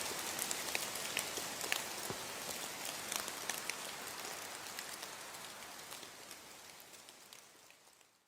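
Steady rain falling, a hiss with many distinct drops ticking on a surface, fading out gradually to silence near the end.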